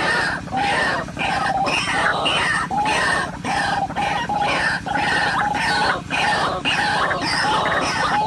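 White-breasted waterhen calls, the same call repeated over and over about twice a second, over a steady low hum.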